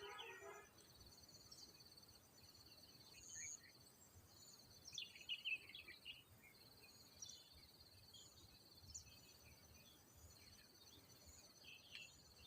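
Faint insect trilling, a high pulsing buzz that runs in long stretches with short breaks, under scattered short bird calls and chirps; the loudest burst of bird notes comes about five seconds in.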